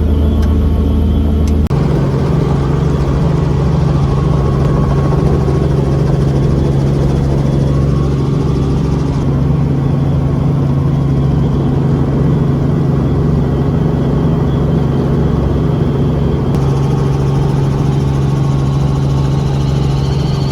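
Helicopter engine and rotors running, a loud steady drone with a strong low hum. Its tone shifts abruptly about two seconds in, again near the middle, and once more late on.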